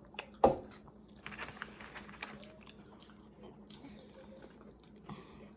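Someone biting and chewing a crispy fried chicken sandwich, with scattered crunches. The sharpest crunch comes about half a second in.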